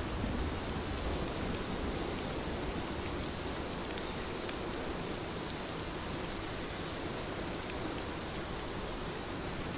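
Heavy rain falling steadily: a dense, even hiss with fine drop ticks.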